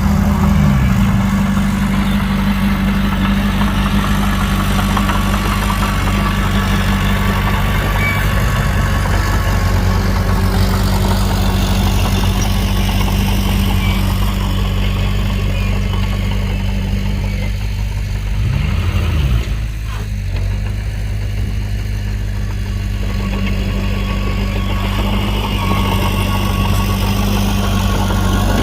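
Heavy diesel engine of construction machinery running steadily, with a brief drop and recovery in engine speed about two-thirds of the way through.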